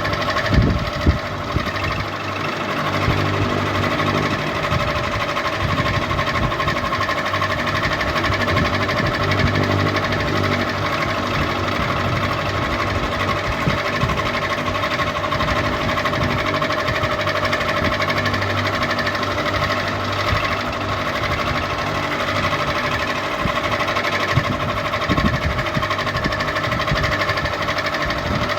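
Ceiling fan running steadily: a motor hum with a held whine, and a few brief knocks within the first second and again about 25 seconds in.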